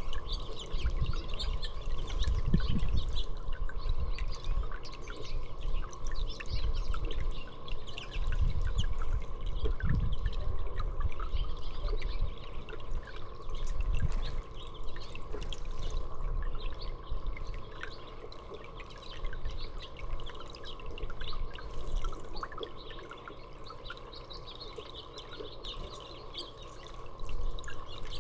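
Small birds chirping repeatedly, many short calls overlapping. A low rumble comes and goes under them through the first half.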